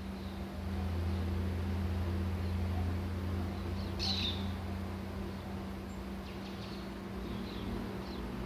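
A bird gives one short, sharp chirp about halfway through, followed by a few faint chirps near the end, over a steady low mechanical hum.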